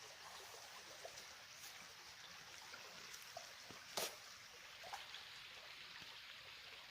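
Near silence: a faint steady hiss with scattered light ticks, and one sharper click about four seconds in.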